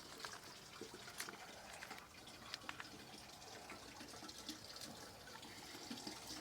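Faint trickle of water running back down through the plumbing after the water was shut off, with a few small clicks or drips.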